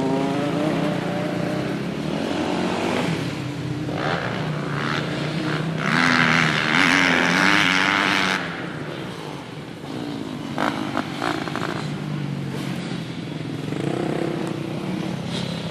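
Dirt bike engine running and being revved as it is ridden, its pitch rising and falling; loudest for about two seconds in the middle.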